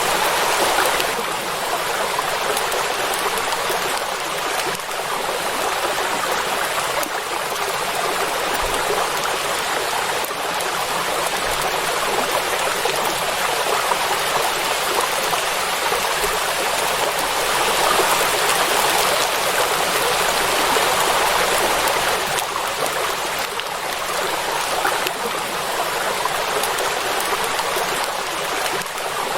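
Heavy rain falling on a lake's surface: a dense, steady hiss with gentle swells in level and no thunder.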